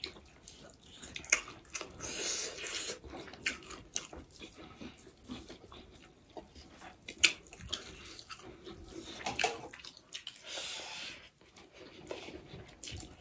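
Close-up eating sounds: wet chewing and mouth noises with scattered sharp clicks, and two longer wet hissing stretches, about two seconds in and again near ten seconds.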